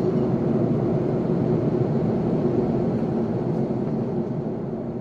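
Steady cabin noise of an airplane in flight: a dense rumble of engines and airflow with a faint steady hum, easing off slightly near the end.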